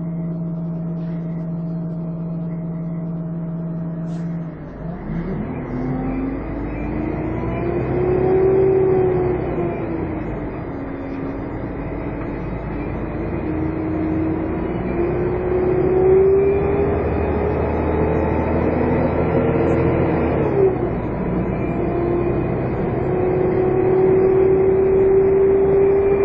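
Volvo Olympian double-decker bus's diesel engine running steadily, then pulling away about five seconds in with the typical 'hoovering' whine. The whine rises with speed and drops back at each gear change, twice, before rising again.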